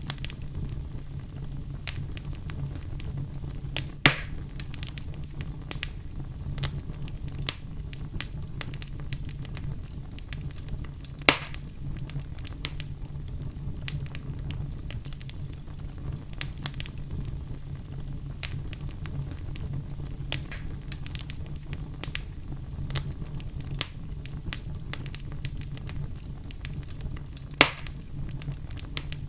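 Wood fire burning in a fireplace, crackling steadily over a low rumble. Three louder pops come about 4, 11 and 27 seconds in.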